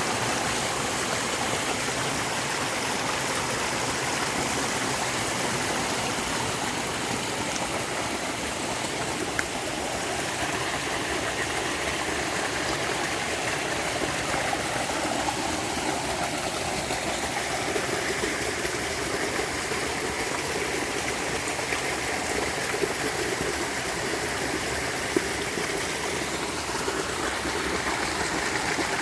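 Clear stream water flowing steadily, an even rushing and trickling of running water.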